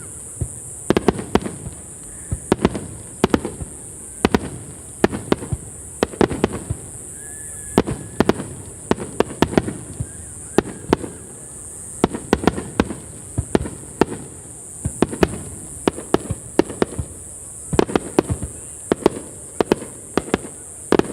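Fireworks display: aerial shells bursting in quick, irregular succession, at times several bangs a second, each trailing a low rumble.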